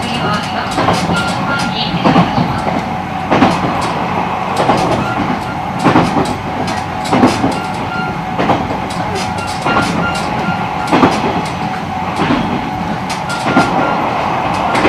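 Interior running noise of a JR East E129 series electric train at speed, heard from its motor car: a steady rumble and a faint steady tone, with the wheels clicking over rail joints about once a second.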